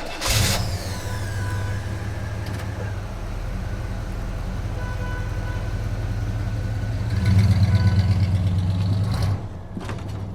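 A steady, low engine-like running hum that starts just after a short sharp burst, grows louder for about two seconds near the end, then drops back.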